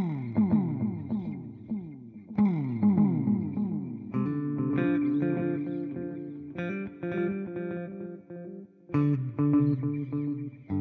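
Electric guitar (a Fender Jazzmaster) played through a TC Electronic Flashback delay pedal into a Fender Twin Reverb amp simulation. Two strums are each followed by a trail of repeating echoes that fall in pitch. About four seconds in, the playing changes to sustained chords struck three times, each ringing on with delay repeats.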